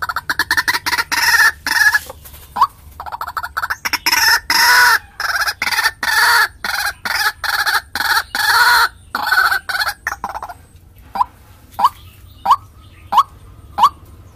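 White-breasted waterhen (ruak-ruak) calls played as a bird-lure recording. A loud, rapid run of harsh repeated notes is followed, from about ten seconds in, by single short rising notes repeated evenly, about three every two seconds.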